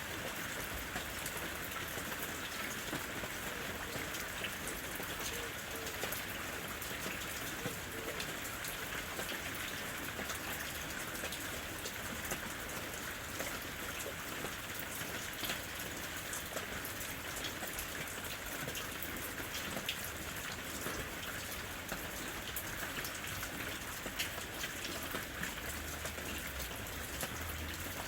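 Steady rain falling, an even hiss dotted with the ticks of many individual drops striking close by.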